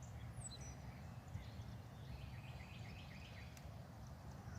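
Faint songbirds singing: a high falling note near the start, then a run of quick chirps in the middle, over a steady low background rumble.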